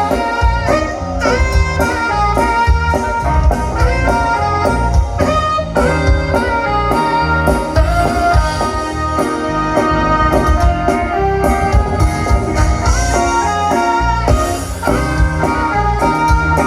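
A Tejano band playing the instrumental introduction of a song, with a steady drum beat under the melody.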